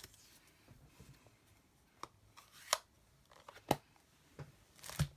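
Craft supplies being handled on a desk: a few separate light clicks and taps as paper and tools are picked up and set down, the sharpest around the middle and near the end.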